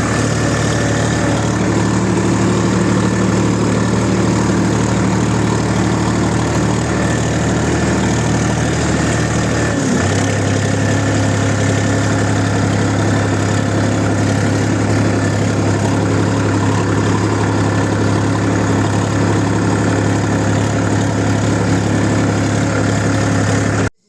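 Diesel engine of a heavy farm machine running steadily; its engine speed shifts about ten seconds in, then the sound cuts off abruptly at the end.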